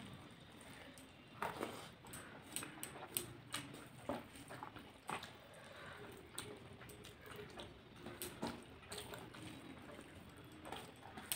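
Close-up eating sounds: chewing and lip-smacking rice and vegetable curry, with irregular wet clicks, while fingers mix the rice on a steel plate.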